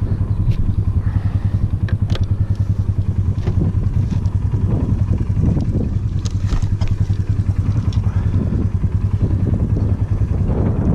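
Polaris ATV engine running steadily, with a few light clicks and rattles.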